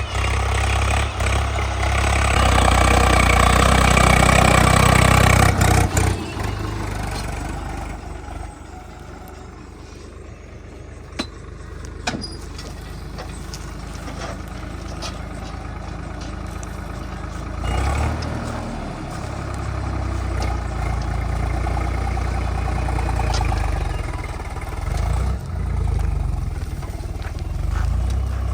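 Heavy diesel machinery engine running hard for the first several seconds, then dropping to a lower, steadier run about six seconds in, and working up again about eighteen seconds in.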